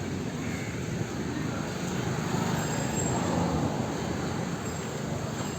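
Street traffic ambience: a steady wash of vehicle noise from a busy road, swelling slightly after the middle.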